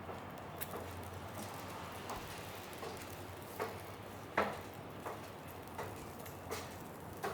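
Footsteps on a snowy street at an even walking pace, about three steps every two seconds, over a low steady hum.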